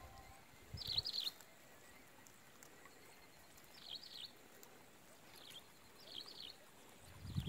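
A small bird repeating a short phrase of quick high chirps about five times, over a faint steady background hiss. There are low bumps about a second in and again near the end.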